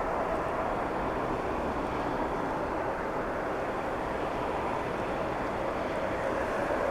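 Jet airliner engines heard from a distance: a steady, even rushing noise that holds level throughout.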